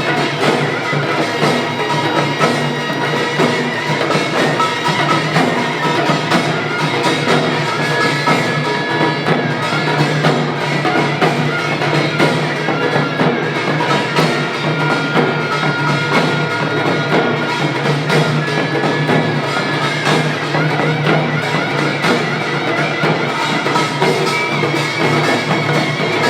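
Korean pungmul percussion ensemble playing a fast, dense, driving rhythm of drum and gong strokes, loud and steady, with ringing metallic tones over the beat.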